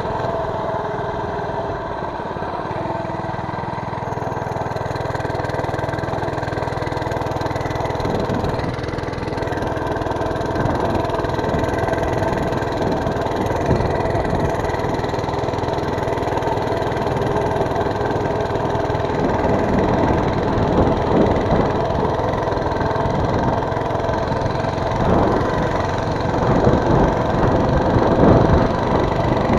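Mini bike's small engine running steadily while being ridden. Irregular rushing noise builds in the second half and is strongest near the end.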